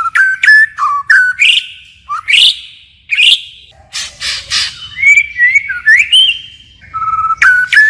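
White-rumped shama singing a varied, continuous song of loud whistled phrases and rising glides, broken by sharp clicking notes, changing phrase after phrase.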